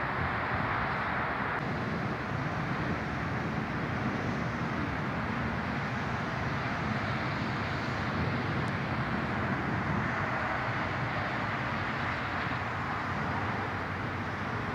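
Steady outdoor background noise with no distinct events and no thunderclap.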